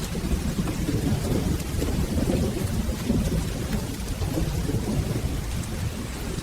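Steady rain with a continuous low, rolling thunder rumble beneath it.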